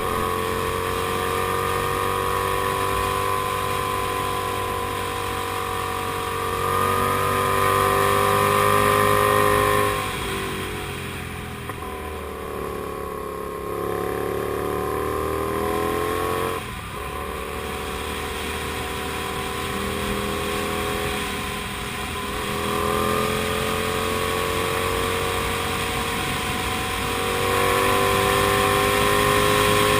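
Kasinski Comet GTR250's 250 cc V-twin engine pulling the motorcycle along, its pitch climbing steadily in each gear and dropping at the gear changes, about five times. Near the middle the engine eases off and the pitch falls, then rises again as it picks up speed.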